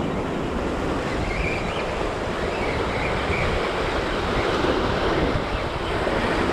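Surf washing on the shore in a steady rush, with wind on the microphone.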